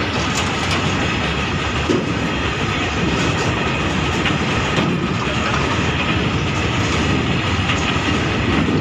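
BOXN open freight wagons rolling past at speed: a steady rumble and rattle of steel wheels on the rails, with a clickety-clack of wheels running over the track.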